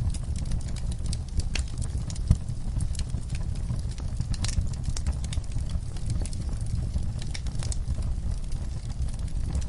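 Fire in a fireplace crackling: scattered sharp pops and snaps over a steady low rumble, with one louder pop a little over two seconds in.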